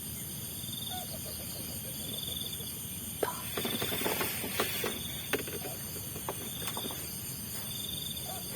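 Insects chirping at night: a high pulsed chirp repeating about once a second over a steady high-pitched drone, with scattered faint clicks and short calls in the middle.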